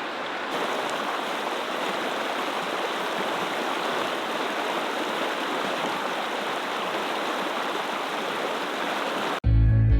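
River water flowing steadily, a constant even rush. Near the end it cuts off abruptly into guitar music.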